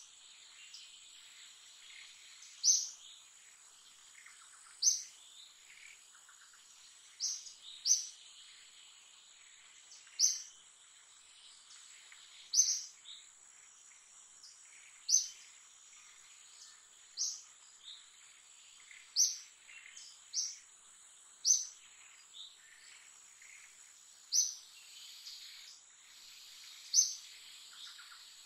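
A bird repeating a short, high chirp about every two seconds, sometimes two in quick succession, over a steady high insect whine.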